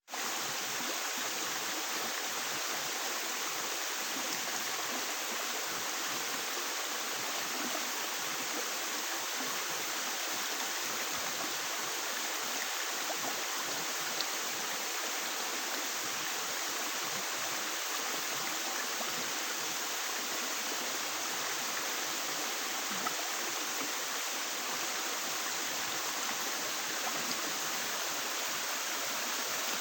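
Stream water flowing, a steady, even rush of running water that holds unchanged throughout, with a couple of faint ticks.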